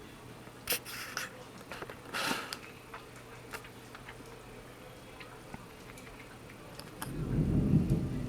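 A few small clicks and scrapes in the first seconds, then a low rumble of thunder building about seven seconds in.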